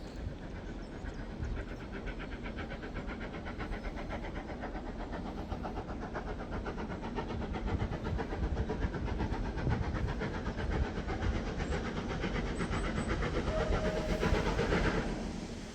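Steam-hauled heritage train running, a steady rumble and rattle of wheels on the rails that grows a little louder past the middle and fades near the end. A brief faint tone sounds shortly before it fades.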